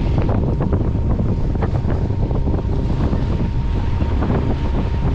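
Wind buffeting the microphone aboard a yacht, over the wash of water around the boat, with a faint steady high tone underneath.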